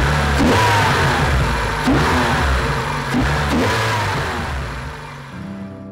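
Car engine idling and being revved in several short blips, each rev climbing and dropping back to idle, with its throttle body freshly cleaned so the idle now holds steady instead of surging and sagging. The engine sound fades near the end.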